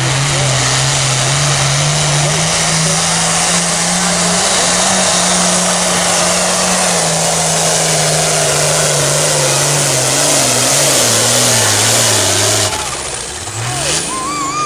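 Pulling tractor's engine running hard at full throttle under load during a tractor-pull run. Its pitch sinks over the second half, then the engine noise drops off sharply near the end.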